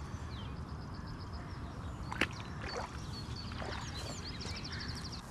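Small birds chirping high-pitched over a steady low rumble, with a fast even trill near the end. A single sharp tick about two seconds in.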